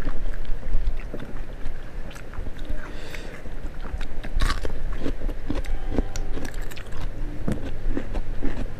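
Eating sounds: bites into raw cucumber and chewing, heard as a string of short crunching clicks.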